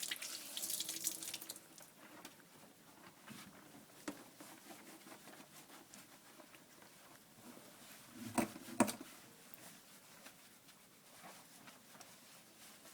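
Water dripping and splashing in a bathtub as a wet dog's coat is worked dry, with two sharp knocks about eight and a half seconds in.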